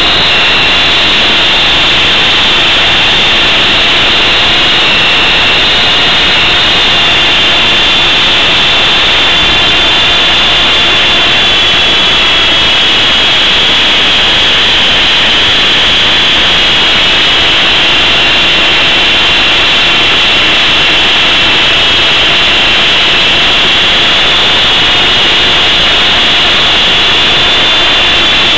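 Two brushless motors of an Esky Big Lama coaxial RC helicopter running under flight load, a loud steady high-pitched whine over rotor and airflow noise, the pitch drifting slightly up and down.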